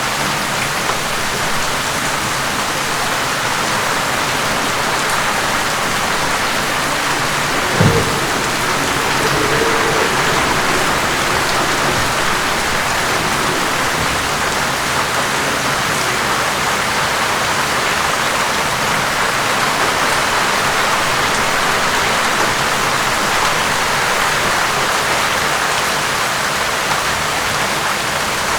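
Steady, heavy rainfall, an even hiss of falling rain. About eight seconds in there is a single short, low thump.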